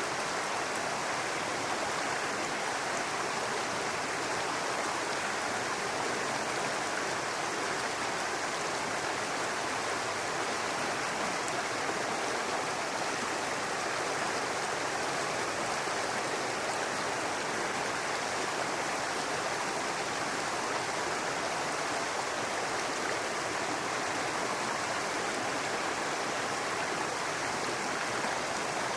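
A babbling brook, water running steadily over rocks in a constant, even rush.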